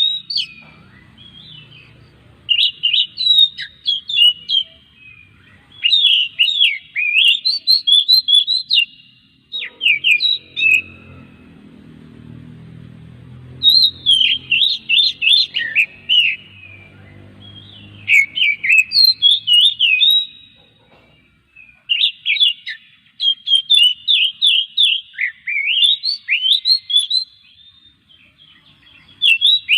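Oriental magpie-robin (kacer) singing loudly in fast bouts of varied, quickly gliding whistled notes, each bout two or three seconds long, separated by short pauses. A faint low rumble sits underneath the song for a few seconds in the middle.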